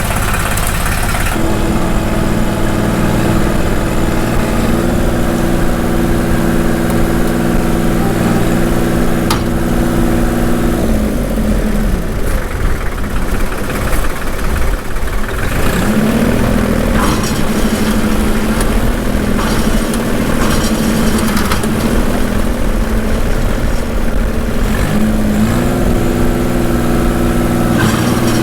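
A tractor engine running hard under steady load while blowing snow. Its speed sags and drops out about eleven seconds in, then climbs back up about five seconds later and holds steady.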